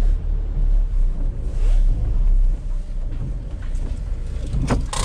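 Van engine and road rumble heard from inside the cab, a steady low drone, with a couple of sharp clicks near the end.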